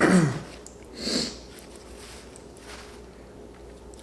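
A man's short wordless vocal sound sliding down in pitch at the start, then a sniff about a second in.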